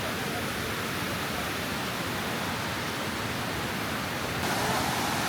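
Steady rushing of water falling over the Kuang Si Waterfall cascades, stepping a little louder about four and a half seconds in.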